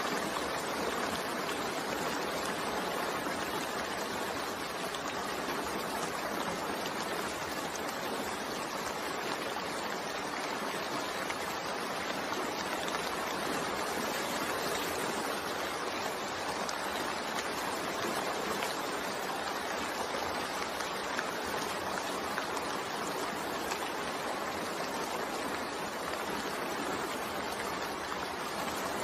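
Steady rain falling, a continuous even hiss with no distinct drops or thunder.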